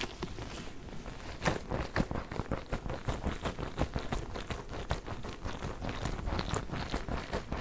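Fingers tapping and squeezing a giant Orbeez water-bead ball: a fast, irregular run of soft taps and clicks.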